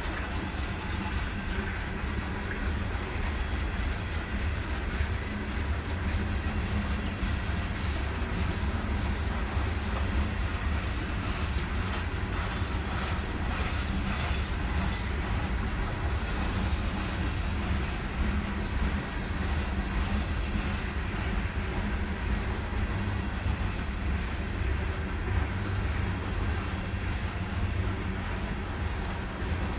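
Freight train of coal hopper cars rolling past: a steady low rumble of steel wheels on the rails, with faint repeated clacks of wheels over the rail joints.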